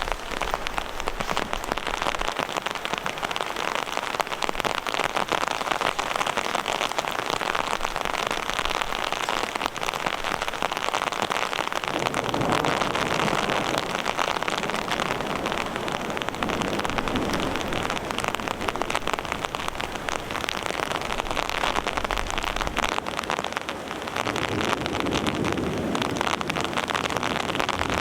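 Steady rain, a dense patter of drops, swelling with a lower rushing sound around the middle and again near the end.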